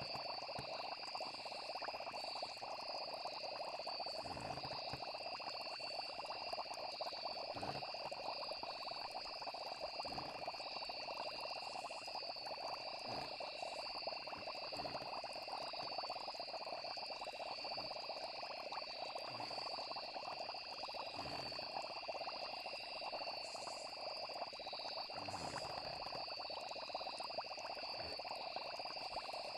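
Night chorus of frogs and insects: dense, steady croaking with two high, unbroken insect trills above it.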